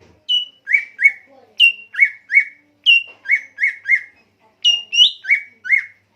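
A songbird singing clear whistled notes in four quick phrases. Each phrase opens with a higher note sliding down, followed by two or three sharp, lower upslurred notes.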